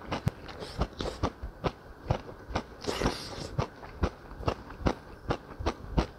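Close-miked chewing of a mouthful of jjamppong noodles and vegetables: wet mouth clicks and smacks, about two or three a second, with a short breath about three seconds in.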